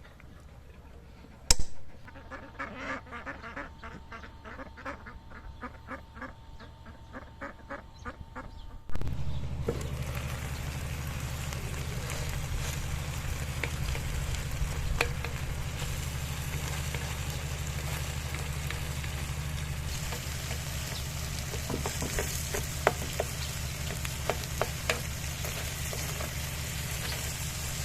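Beef kebab mince frying in a pan, a steady sizzle over a low hum, starting suddenly about nine seconds in. Before that there is a sharp click, then a quick run of short, evenly spaced calls.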